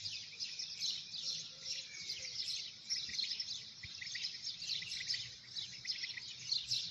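A dense chorus of many small birds chirping rapidly, their short calls overlapping continuously.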